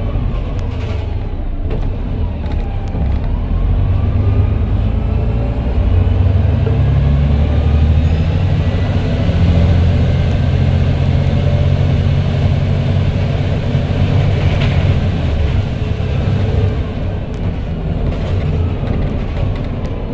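Volvo B7TL double-decker bus's turbocharged diesel engine running under way, with a steady low rumble. Whines above it rise and fall in pitch as it pulls and eases off.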